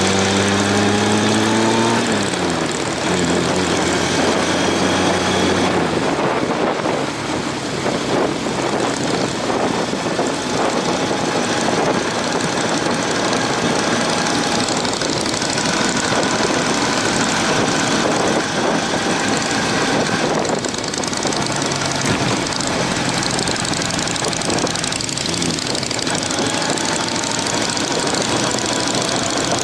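Honda CB750 inline-four motorcycle engine running under way, with a heavy rush of wind noise. The engine note rises at the start, drops about two seconds in, and rises again near the end.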